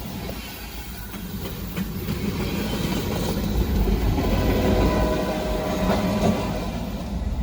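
A train rolling past, with a heavy rumble and the clickety-clack of wheels on rail joints, growing louder through the clip. A steady pitched tone sounds over it from about four to six seconds in.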